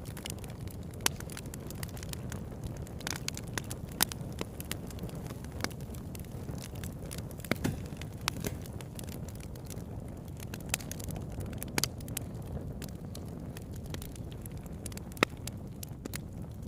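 Campfire burning: a steady low rush of flame under frequent sharp crackles and pops, with a few louder snaps scattered through.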